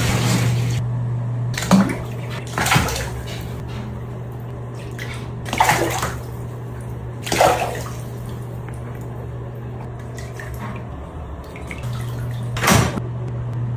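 Water in a bathtub, with half a dozen short louder splashes spread through, over a steady low hum.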